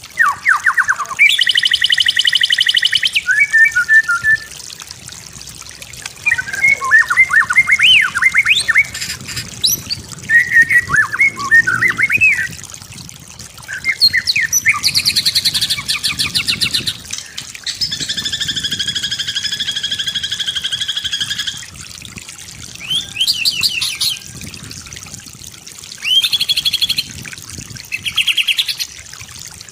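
White-rumped shama (murai batu) singing a long, varied song in separate phrases with short gaps: sweeping whistles, quick chip series and fast buzzy trills, including one long buzzy phrase in the middle. A faint trickle of water runs underneath.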